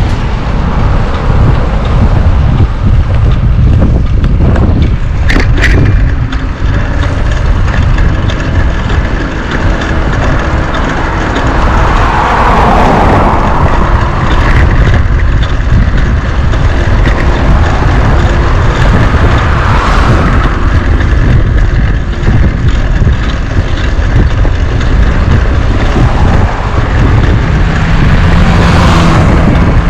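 Heavy wind rumble buffeting the microphone of a moving bicycle, continuous and loud, with a few louder swells of noise along the way.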